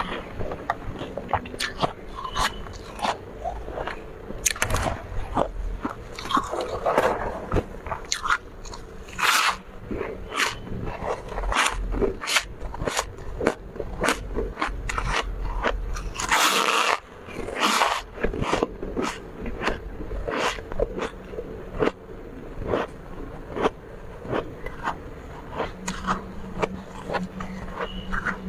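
Close-miked biting and chewing of soft, powdery freezer frost, with a rapid, irregular run of crisp crunches and a few longer crunching bites.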